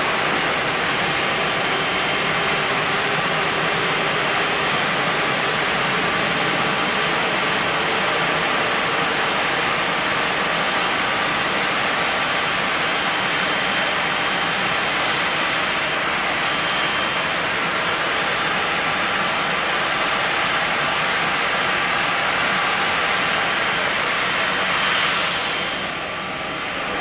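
Learjet's twin jet engines running steadily: a constant jet rush with thin whining tones laid over it, easing briefly near the end.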